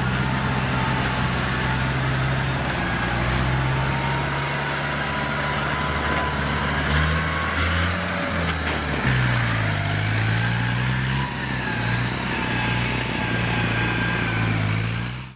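Engines of loaded rice-hauling tractors running under load on soft, muddy ground. Their pitch shifts about halfway through, where two engine notes cross, with a thin whine above.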